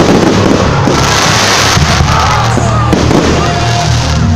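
Aerial fireworks crackling and popping over loud music with a heavy bass beat, with a dense burst of crackle about a second in.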